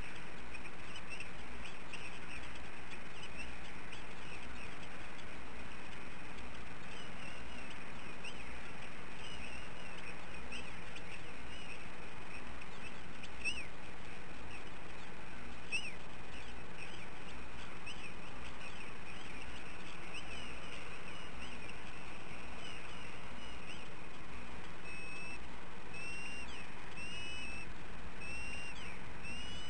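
Short, high-pitched bird chirps repeated over and over against a steady background hiss. Near the end they settle into a run of evenly spaced short calls.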